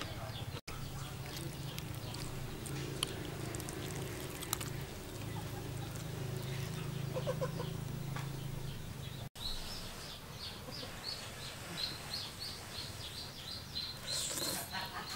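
Background birdsong: a small bird chirping in a fast, regular series of high notes through the second half, over a low steady hum in the first half.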